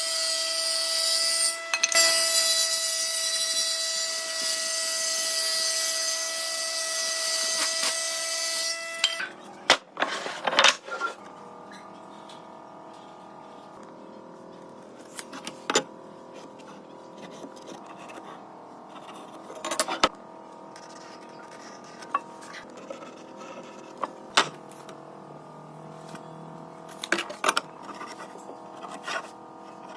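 An electric power tool runs steadily on wood, with a high whine and hiss, then cuts off about nine seconds in. Scattered light knocks and taps of wood being handled follow.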